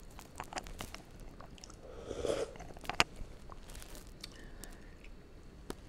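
Close-miked mouth sounds of a person chewing food, with many small smacking clicks, a louder mouth sound lasting about half a second about two seconds in, and one sharp click about three seconds in.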